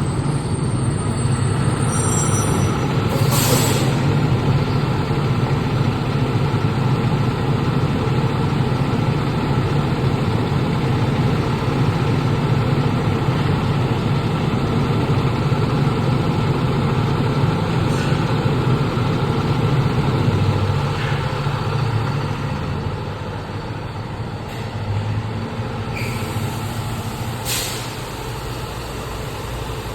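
Heavy fire truck engine running, with short hisses of air from its air brakes a few times. The engine grows quieter in the last third.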